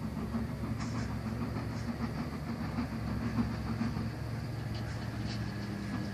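Museum railway train running, a steady low hum with faint scattered clicks.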